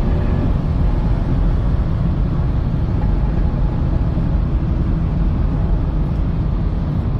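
Porsche sports car cruising at steady highway speed, heard from inside the cabin: a steady low rumble of engine and road noise.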